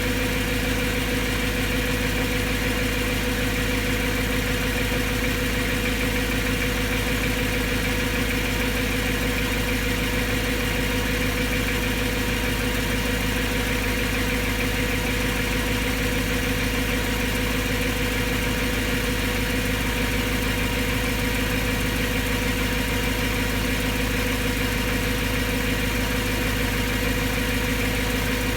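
BMW M3's S65 V4.0 V8 idling steadily with a ticking noise, which the owner finds not normal and fears even after fresh rod bearings.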